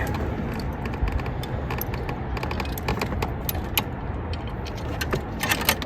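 Small metal clicks and light clatter from hand tools and bolts being handled around an engine bay, with a quick run of clicks near the end.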